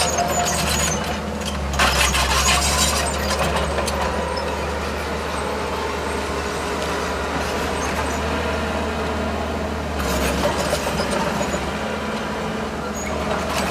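Heavy diesel earthmoving machinery running steadily, with a low engine drone. Louder stretches of clattering noise come about two seconds in and again around ten seconds in.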